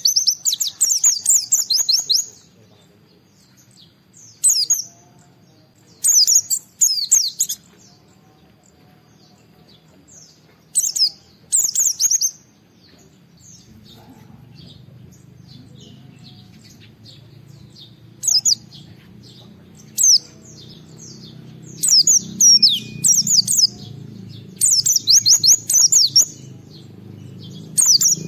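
White-eye (pleci) singing in bursts of fast, high twittering phrases, each a second or two long with short pauses between. A low steady hum rises in the background from about halfway through.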